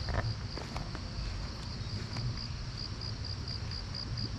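Insect chirping outdoors: a high-pitched pulse repeating evenly several times a second, over a low rumble with a few faint light clicks.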